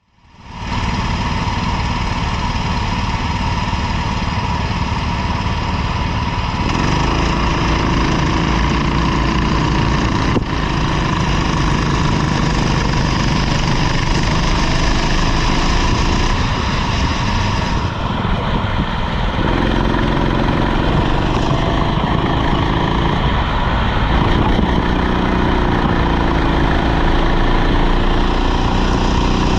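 Rental kart's small engine running under throttle, its pitch shifting up and down as the revs change, over a steady rushing noise. The sound fades in during the first second.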